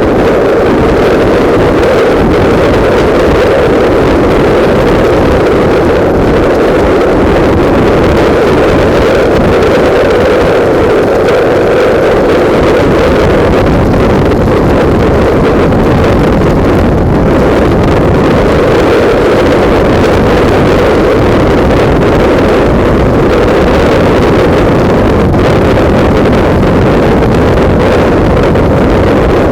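Loud, steady wind noise on a camera microphone mounted on a moving motorcycle, with the bike running underneath.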